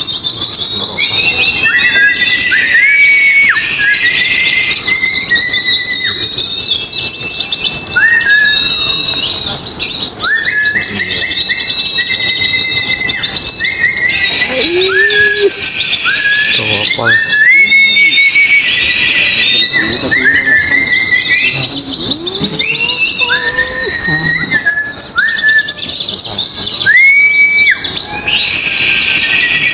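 Pleci (white-eyes) singing nonstop, a rapid high twittering chatter with several birds overlapping, mixed with short rising whistled notes that repeat every second or two.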